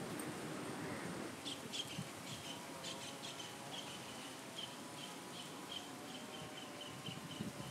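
Banana leaf rustling as it is folded for about the first second, then a bird chirping steadily, short high chirps about four a second.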